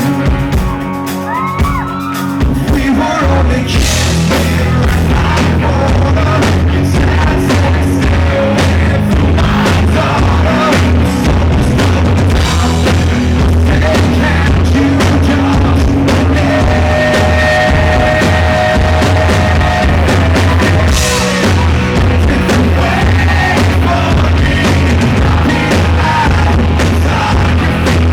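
Live rock band playing loudly; the full band, with heavy drums and bass, comes in about three seconds in after a lighter opening, with singing over it.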